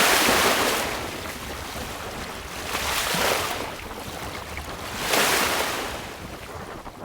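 Choppy sea water rushing and splashing against a sailboat's hull, swelling in surges every two to three seconds, with wind over the microphone.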